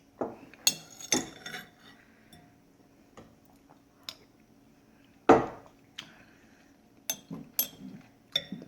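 A spoon clinking against a soup bowl several times, with one louder knock about five seconds in.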